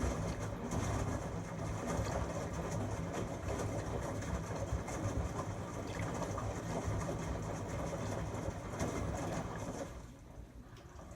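LG Tromm WD-CR101C drum washing machine running mid-cycle: a steady low hum under a noisy whir, which drops away about ten seconds in.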